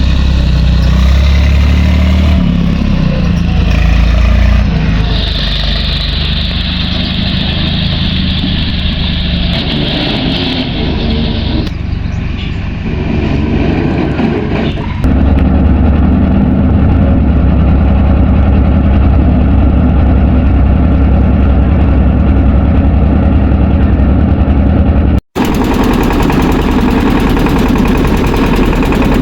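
Tractor engine running hard and steadily, with a hiss over it for several seconds near the start and a step up in level about halfway through. It breaks off abruptly once near the end and picks up again.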